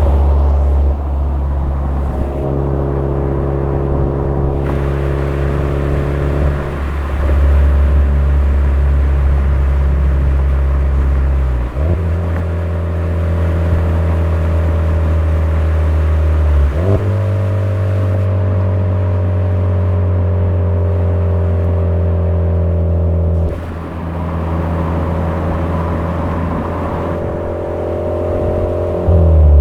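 Suzuki Swift Sport ZC33S's 1.4-litre turbocharged four-cylinder engine, heard through a Fujitsubo aftermarket exhaust, running steadily under way on the expressway. Its note steps to a new pitch every few seconds and holds there between the steps.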